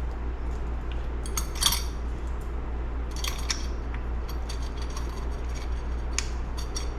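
Light metallic clinks and taps of clutch parts being handled and fitted, the pressure plate with its springs and bolts going onto a Honda CR125 two-stroke engine's clutch. The clinks are scattered, over a steady low hum.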